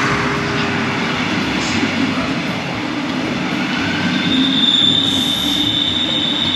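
Passenger train running alongside the platform, a steady loud rumble of wheels and carriages. A thin, high steady squeal joins about four seconds in.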